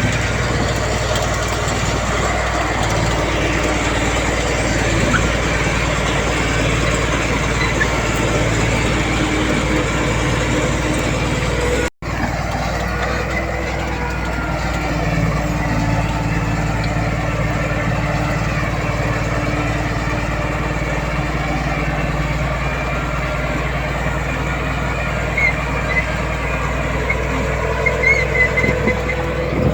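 Diesel engines of heavy earthmoving machinery running steadily under work, with a brief dropout near the middle and a few short clinks near the end.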